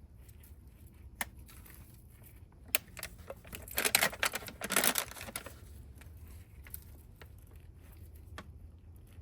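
Hands at work potting plants: scattered light clicks and taps, with a burst of rustling and scraping from about three and a half to five and a half seconds in.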